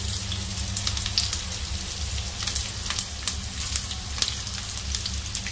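Chopped garlic and cumin seeds sizzling in hot ghee in a kadai, with frequent irregular crackles and pops over a steady low hum.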